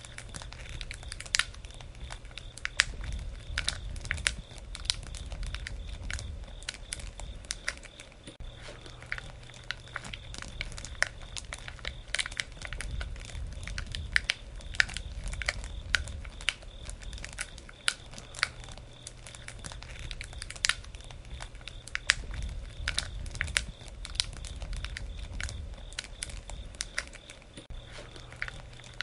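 Wood fire burning: irregular sharp pops and crackles over a low rumble that swells and eases every few seconds.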